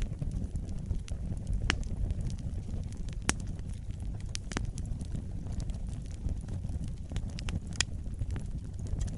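Wood fire burning with a steady low rumble and scattered sharp crackles and pops, two louder pops about three and eight seconds in.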